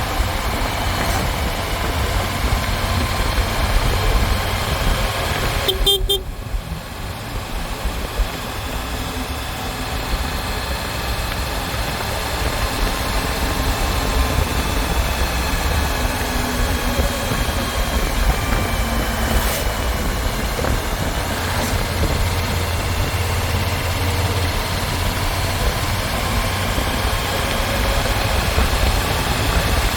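Motorcycle engine running at road speed with steady wind and road rumble. A short pulsing beep sounds about six seconds in.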